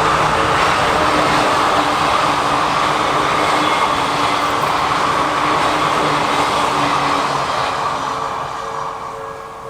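Odakyu Odawara Line electric train passing at speed: a steady rush of wheel and running noise that fades over the last couple of seconds. The level-crossing bell's ringing shows through again near the end.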